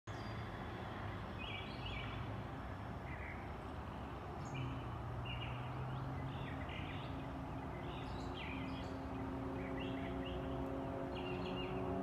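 Early-morning birdsong: short chirping calls repeating about once a second over a steady background noise, with a low steady hum that grows stronger about four seconds in.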